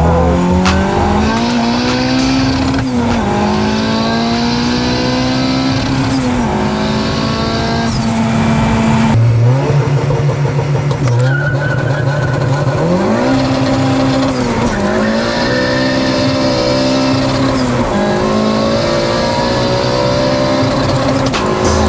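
The engine of a turbocharged Citroen Saxo VTS, a 1.6-litre four-cylinder, accelerating hard. Its pitch climbs and drops again and again as the throttle is worked and the gears change. A faint high whine comes and goes above the engine note, and the sound breaks abruptly about nine seconds in.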